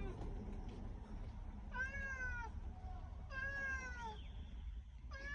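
A pet cat meowing to call its owner as he approaches: two drawn-out meows about a second and a half apart, with a third starting near the end.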